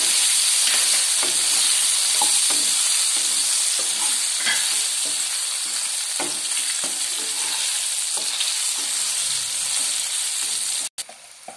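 Cut idli pieces frying in hot oil in a nonstick pan: a steady loud sizzle, with scattered light knocks and scrapes as a wooden spatula stirs and turns them. The sizzle drops off suddenly near the end, leaving a much quieter sizzle.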